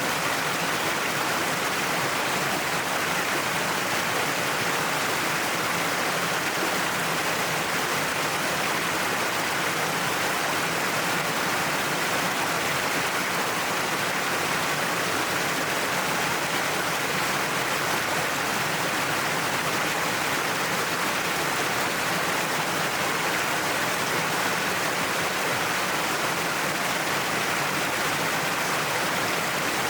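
Waterfall pouring down a cliff face: a steady, even rush of falling water that does not change.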